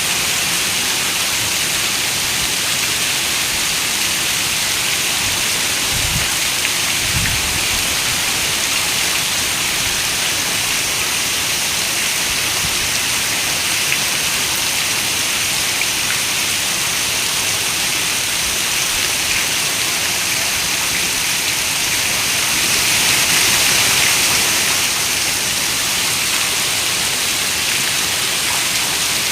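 Steady rain falling, an even hiss of many drops against a window. Two short low thumps come about six and seven seconds in, and the rain swells briefly louder about three quarters of the way through.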